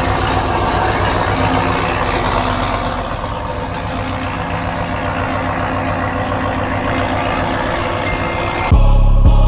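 A truck engine idling steadily. Near the end, loud music with a heavy bass beat cuts in abruptly.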